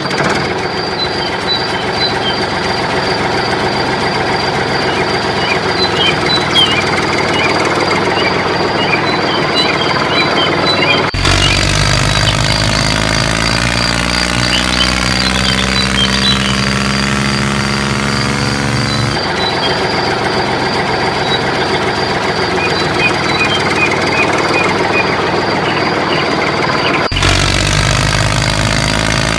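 An engine running steadily at idle, its tone changing abruptly about every eight seconds, with a steady high whine above it.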